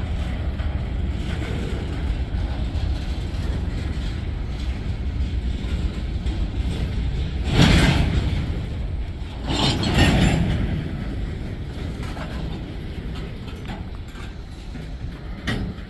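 Freight train cars rolling past close by: a steady low rumble of wheels on rail, with two brief loud surges in the middle, about two seconds apart, then easing off slightly.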